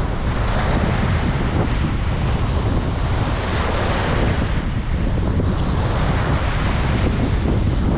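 Ocean waves washing on a beach, a steady surf with swells of wash, and a heavy low rumble of wind on the microphone.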